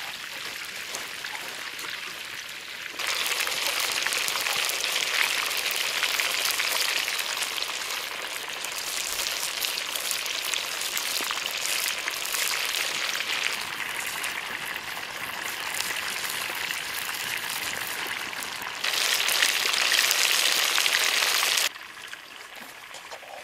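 Whole chickens frying in hot oil in a wok, a steady crackling sizzle. It jumps louder about three seconds in and drops away suddenly near the end.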